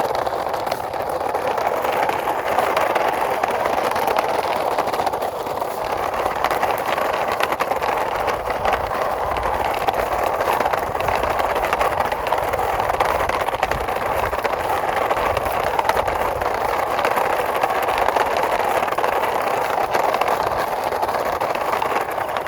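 Wheels of a yellow plastic toy dump truck rolling over the ground, a steady, continuous rolling noise without a break.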